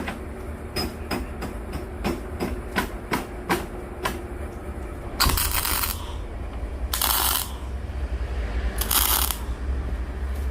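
Parts of a steel wood stove with firebrick lining being fitted by hand: a quick run of light knocks with a faint metallic ring, then three short scrapes as pieces are pushed along into place.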